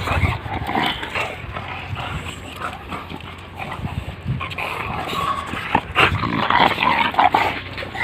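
British bulldog puppies whimpering and yipping in many short, irregular calls, with a few sharp clicks among them.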